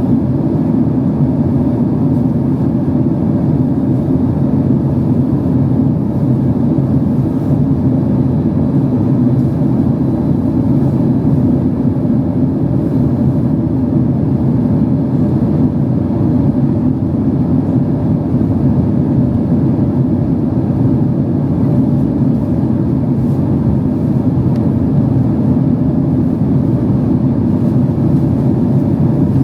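Steady low cabin noise inside a Boeing 767-300 in flight, a constant rumble of jet engines and airflow with no change in level.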